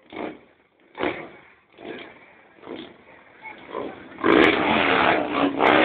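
Motorcycle engine revved in short throttle blips about once a second, then held in a longer, louder rev near the end.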